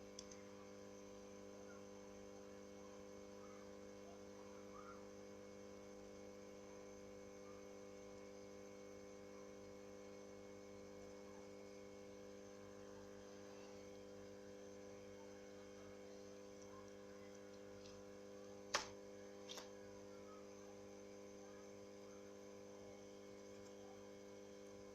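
Near silence with a steady electrical hum, broken about three quarters of the way through by two short clicks less than a second apart, small taps from handling the phone parts on the bench.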